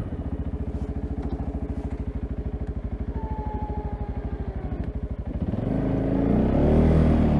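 Single-cylinder ATV engine dropping to idle with an even, rapid chugging beat, then revving up again about five and a half seconds in.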